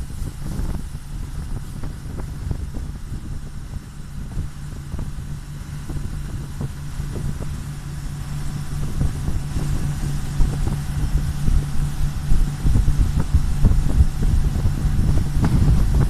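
Voskhod hydrofoil's diesel engine running steadily under way, with gusty wind buffeting the microphone; the rumble grows louder past the middle.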